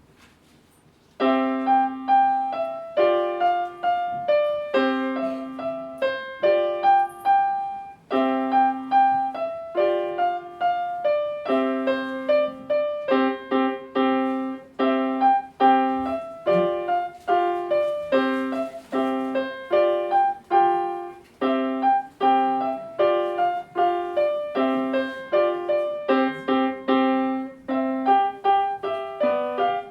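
A student playing a simple melody on a keyboard instrument, piano-like, a recital piece; the playing starts about a second in after a moment of quiet.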